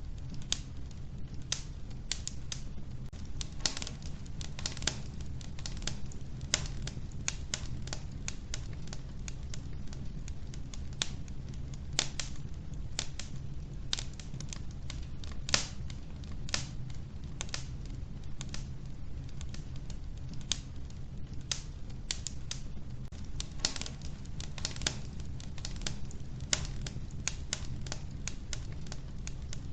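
Wood fire crackling in an old wood-burning stove: irregular sharp pops and snaps, several a second, over a steady low rumble.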